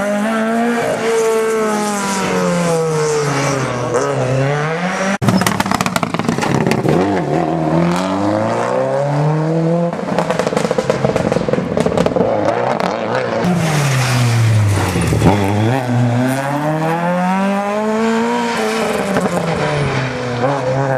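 Rally car engine running hard on a special stage. The engine note drops and climbs again several times, and there is a sudden break about five seconds in.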